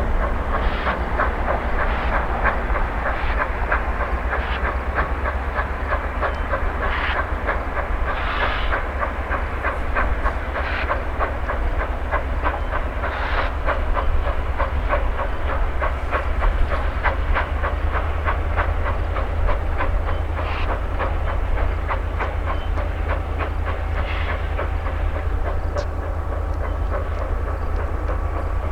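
1929 2-8-2 Mikado steam locomotive under way: a steady run of rapid clicking and clanking with bursts of steam exhaust and hiss every second or few seconds.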